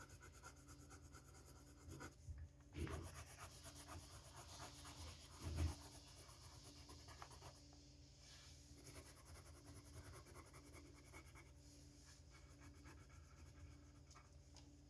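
Faint, continuous scratching of a wax crayon colouring in on paper, a little louder twice, about three and five and a half seconds in.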